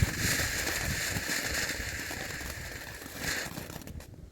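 Consumer firework fountain spraying with a steady hiss and a flare about three seconds in, then dying out near the end.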